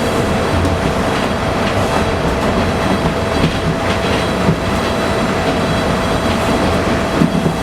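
Bombardier T1 subway car running, heard from inside: a steady rumble with a constant tone and a few short clicks from the wheels on the track.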